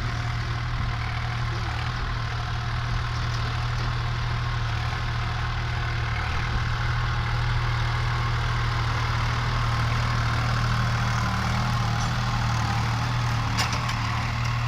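New Holland 3600-2 tractor's diesel engine running steadily at a low, even speed, with a brief click near the end.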